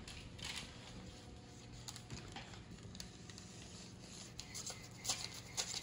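Quiet, scattered rustles and light taps of stiff biscuit dough being rolled out and handled on the counter, with a few sharper clicks near the end.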